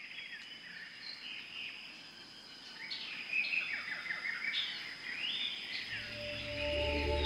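Several wild birds singing and chirping in short repeated phrases over a steady high-pitched drone, with soft ambient music fading in over the last second or so.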